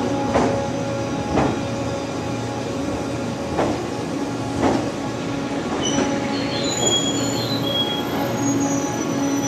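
E001 series Train Suite Shiki-shima running, with a steady hum and its wheels squealing on the rails: four short sharp squeaks in the first half, then thin high-pitched squeals from about six seconds in.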